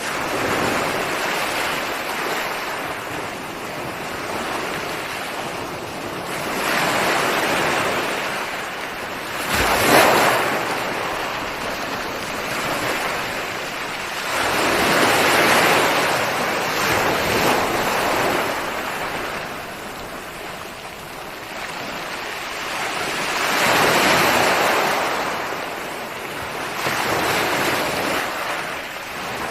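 Ocean waves breaking and washing up a shore, the surf swelling and fading every several seconds. The sharpest, loudest crash comes about a third of the way through. The sound starts abruptly out of silence.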